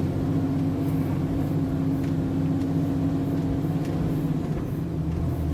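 Heavy truck's diesel engine pulling under load, straining to keep the MAN TGS 33.480 moving on a slippery, rain-softened road. About four seconds in, the engine note drops lower.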